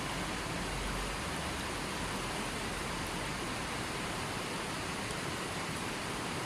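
Steady, even hiss of rushing water, with no breaks or distinct calls.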